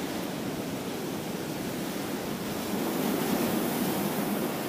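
Ocean surf washing onto the beach, a steady rush that swells slightly past the middle.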